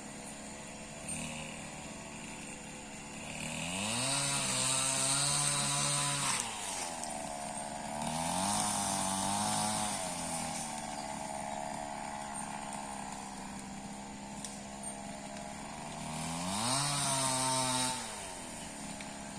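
Chainsaw idling, then revving up three times, each time held for a second or two as it cuts through thick branches and logs, then dropping back to idle.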